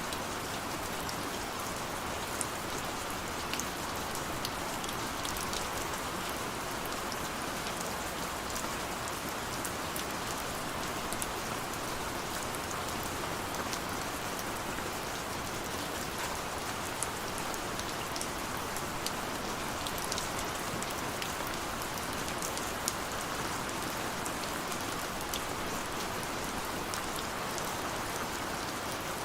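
Steady, gentle rain, with scattered sharp ticks of individual drops striking a hard surface.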